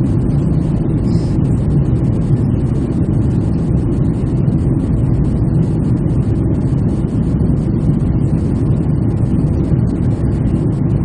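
Airliner cabin noise in flight: a loud, steady low rumble of jet engines and rushing air, heard from inside the cabin.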